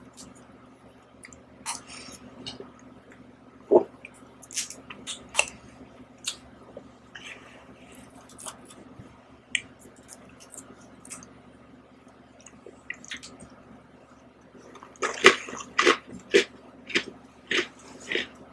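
Close-miked eating of ice cream and Oreo cookies with a metal spoon: scattered wet mouth clicks and spoon sounds, then a quick run of smacking chews, about two or three a second, near the end.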